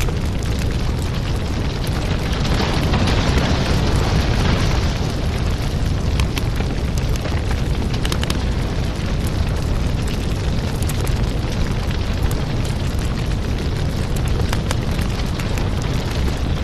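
Wood fire crackling, with many small sharp pops over a steady low roar of flames.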